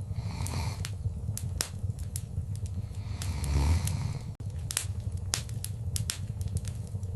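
Wood fire in a fireplace crackling, with frequent sharp pops and snaps over a low rumble of flame. A soft rushing swell rises about three to four seconds in, and the sound drops out for an instant just after.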